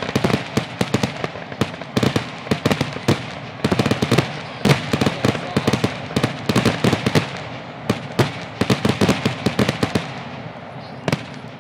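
Fireworks finale: aerial shells bursting in a rapid, dense barrage of reports, several a second. The bursts thin out and fade near the end, with one last report just before it stops.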